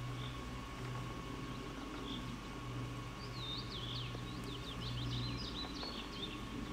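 A small songbird singing a rapid twittering run of high notes for about three seconds, starting near the middle, with a few single chirps before it. Underneath runs a steady low hum.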